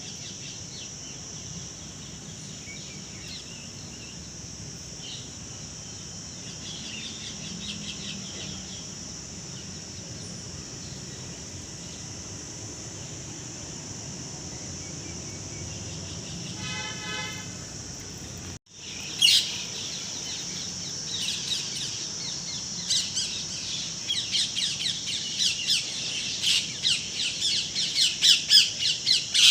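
Birds chirping outdoors over a steady high-pitched hiss. After a short break about two-thirds in, rapid chirps and squawks come thick and grow louder toward the end.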